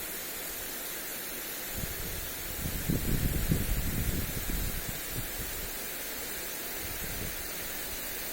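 Lawn sprinkler spraying water onto grass, a steady hiss. Gusts of wind buffet the microphone with a low rumble about three seconds in.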